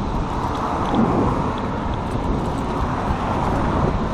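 Steady rush of wind over the microphone of a moving bicycle, mixed with the noise of road traffic.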